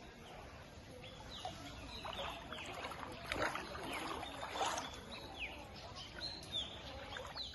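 Birds chirping, many short falling calls, with two louder rushing, splashy noises about three and a half and four and a half seconds in.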